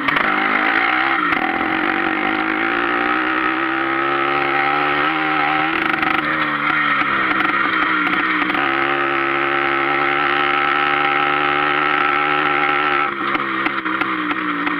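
Sachs Hercules engine running through a straight pipe as the bike is ridden, its pitch climbing and easing off several times with the throttle and dropping sharply a little past halfway.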